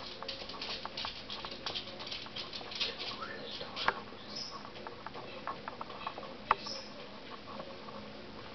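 Outdoor birds: rapid, irregular light ticking and tapping, with two louder clicks, and a few brief high calls that fall in pitch, about four and six and a half seconds in.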